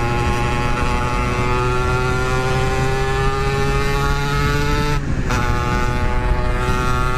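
Yamaha RX-King 135cc two-stroke single-cylinder engine under hard acceleration, its pitch climbing steadily through a gear. It breaks briefly for an upshift about five seconds in, then pulls and rises again.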